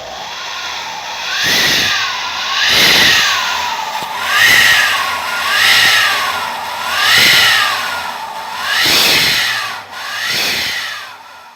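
Aftermarket racing exhaust giving a jet-like whooshing whistle as the engine is revved, swelling and falling about seven times in a steady rhythm.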